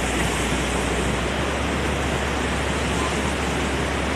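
Steady, even rush of a mountain waterfall's falling water.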